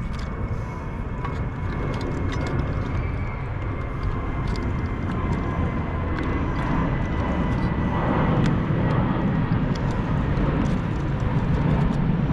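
Scattered small plastic clicks and taps as AA batteries are slid into a toy train's battery compartment, over a steady low rumbling noise.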